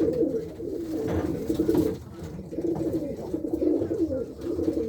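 A loft full of racing pigeon cockbirds cooing, many overlapping coos forming a continuous low warbling chorus. It is the courtship cooing of cocks trying to pair up.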